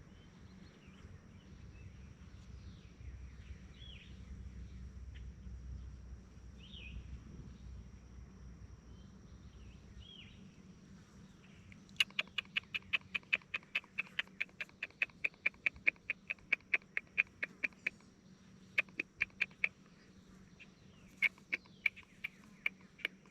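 Bird calls: faint short chirps at first, then from about halfway a rapid series of sharp, clicking calls, about four a second, broken by a couple of short pauses.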